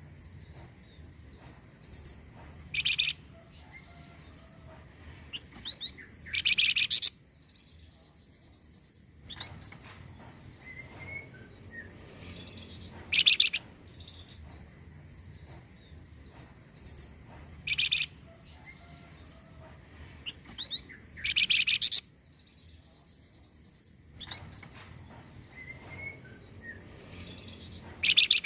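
Recorded calls of a flamboyan bird played as a lure: loud, harsh call phrases mixed with short chirps. The same sequence repeats about every 11 seconds, as a looped recording.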